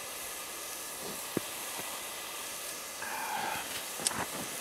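Steady hiss of outdoor background noise, with a sharp click about a second and a half in and another near the end.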